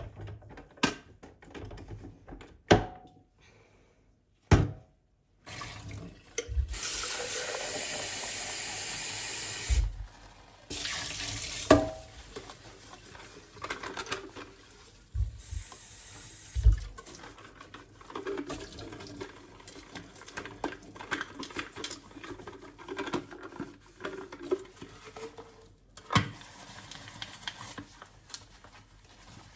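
A kitchen tap runs into a sink for about three seconds, then briefly again. Sharp knocks come before it, and lighter clicks and clatter of kitchen things come after.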